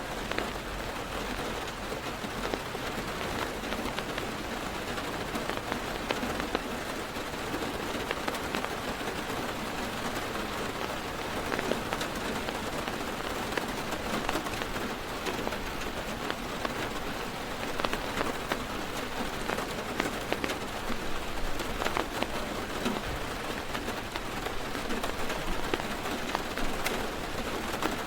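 Heavy rain drumming steadily on a car's roof and windows, heard from inside the car, with many individual drops ticking sharply against the steady patter.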